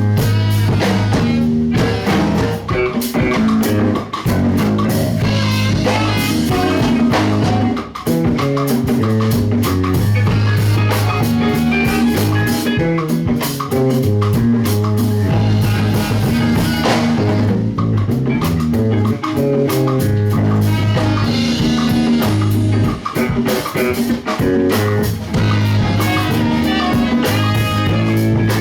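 A live rock band playing an instrumental passage: electric guitar, bass and drum kit.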